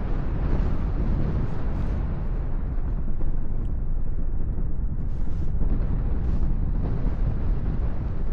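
Wind rushing over the microphone in flight under a paraglider: a steady low rumbling buffet with no other sound standing out.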